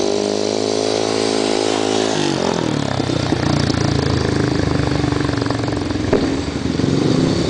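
Speedway motorcycle's single-cylinder methanol engine running hard at high revs, its note dropping sharply about two seconds in as the throttle comes off. A lower, uneven engine note carries on after that.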